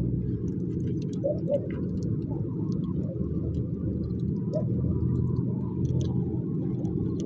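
Wood fire crackling, with scattered small sharp pops and snaps over a steady low rumble.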